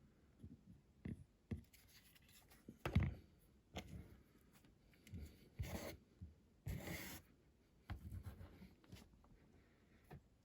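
Small parts of a diecast model car being handled and fitted by hand: scattered light clicks and taps, with a few brief scratchy scrapes of metal and plastic pieces.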